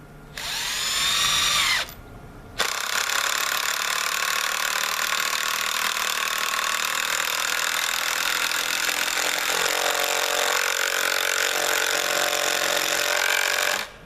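Power driver running screws into wood: a short run of about a second and a half whose pitch rises as the motor spins up, a brief pause, then one long continuous run of about eleven seconds whose tone changes about ten seconds in.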